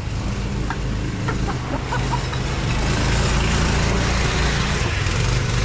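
Off-road buggy engines running on a dirt track, growing louder from about halfway through as buggies come close, then dropping away near the end.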